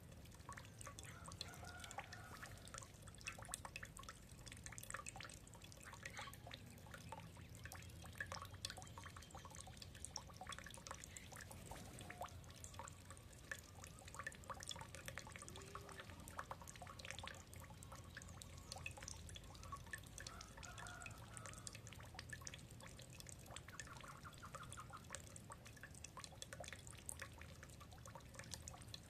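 Birds feeding: faint, irregular small clicks and ticks of pecking, with a few soft, short bird calls now and then.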